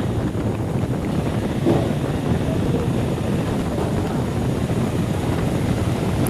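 Wind rumbling on the microphone of a moving motorcycle, with the bike's running noise on a wet road underneath.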